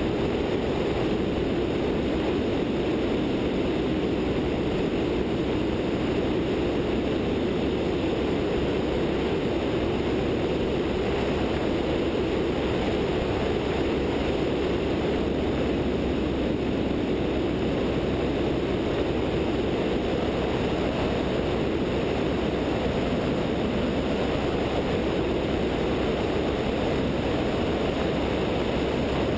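Steady in-flight noise of a Zenith light sport airplane heard from its wingtip: a rush of airflow mixed with the drone of its 100-hp Continental O-200 engine and propeller, holding constant without change.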